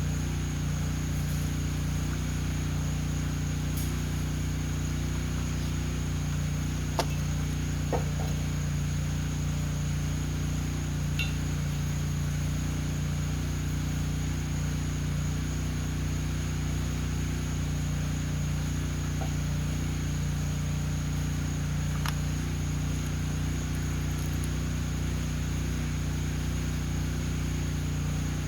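Steady low mechanical hum with a constant high whine above it, broken by a few faint clicks and taps.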